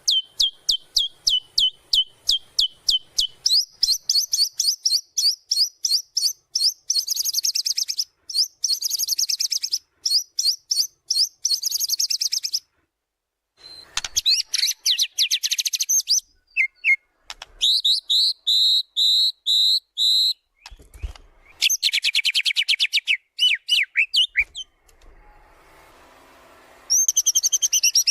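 White-rumped shama (murai batu) singing at full volume through its varied repertoire of learned phrases. It sings rapid runs of sharp repeated notes, trills and a series of clear falling whistles, with short gaps and a pause of about a second near the middle.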